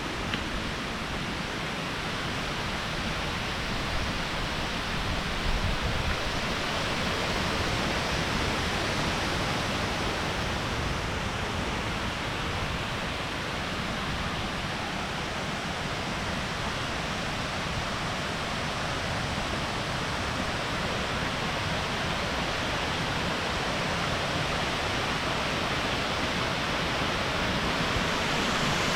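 Small waterfall's water rushing steadily, getting a little louder near the end.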